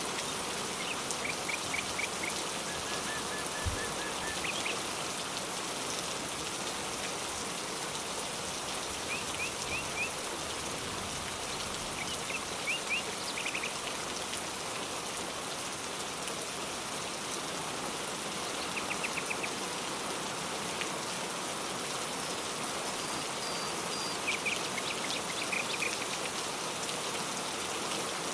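Steady rain falling, with a bird calling in short, quick series of chirps every few seconds.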